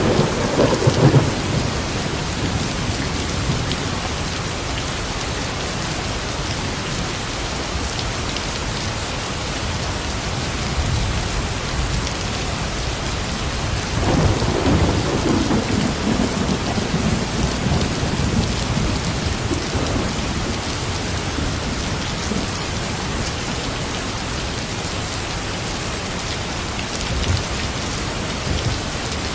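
Steady rain pouring down, with thunder rumbling at the start and again in a long roll about halfway through.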